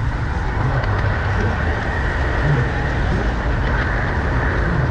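Steady rumble and rattle of a garden-scale model train running along its track, heard from on board the train.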